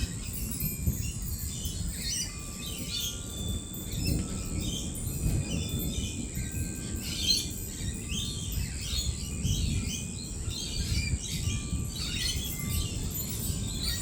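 A flock of lorikeets chattering and screeching in quick, overlapping calls, with a low rumble underneath.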